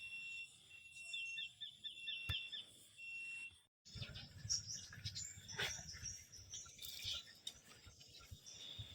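Birds chirping: repeated short high whistled notes and a quick run of falling chirps. After a sudden cut a little under four seconds in, rustling noise with scattered clicks and a low rumble takes over.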